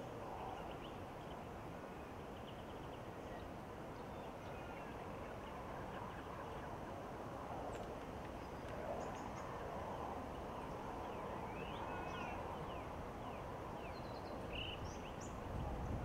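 Scattered short, high-pitched bird chirps and quick sweeping calls, more frequent in the second half, over a steady background hiss.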